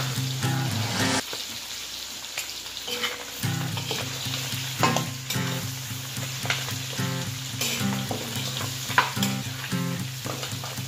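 Carabao meat and onions sizzling in hot oil in an aluminium wok, with a metal spatula scraping and clinking against the pan as the meat is stirred and turned.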